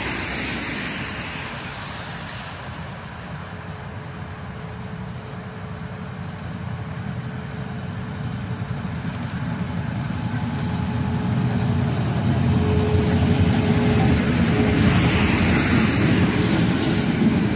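Diesel locomotive hauling a HÉV train, its engine running with a small scooter-like note and growing steadily louder over the second half as the train approaches.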